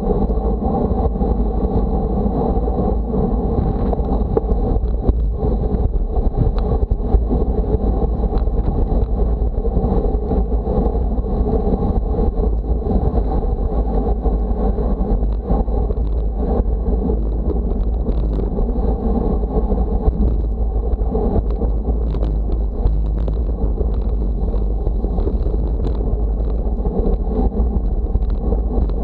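Wind buffeting the microphone on a windy day, a loud steady low rumble, mixed with constant road noise.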